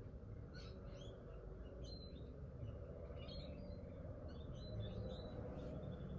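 Faint birdsong from the garden: short, high chirps in quick clusters throughout, over a steady low background noise.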